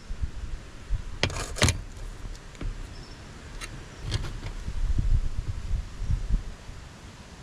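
Wind buffeting the microphone in gusts, with a few sharp clicks and rattles, the loudest pair about a second and a half in.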